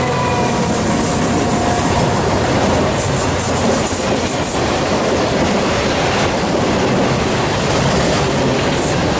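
Freight train cars rolling past, wheels clattering over the rails in a steady loud rumble. Faint wheel squeal fades out in the first second or so.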